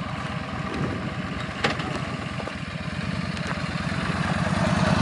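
Motorcycle engine running at a steady idle-like beat, growing louder over the last couple of seconds. A single sharp click is heard about a second and a half in.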